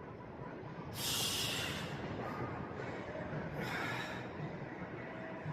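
Heavy breathing from exertion during leg exercises: a forceful hissing exhale about a second in and another near four seconds.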